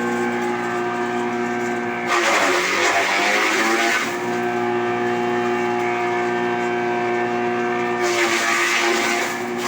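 Silage-making machinery running steadily with a constant pitched hum. Louder, rough noise surges in for about two seconds, starting around two seconds in, and again near the end.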